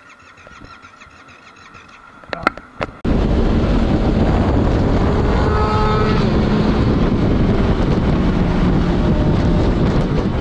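Motorcycle riding at speed, its engine buried under heavy wind noise on the microphone; it cuts in suddenly about three seconds in, after a quieter stretch broken by a few sharp clicks.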